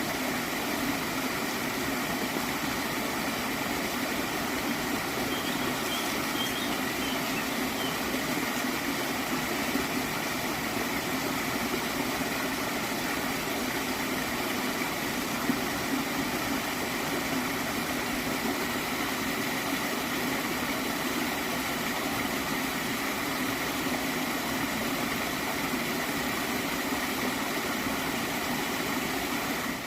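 Small stream of water flowing steadily, an even rushing noise with no change in level.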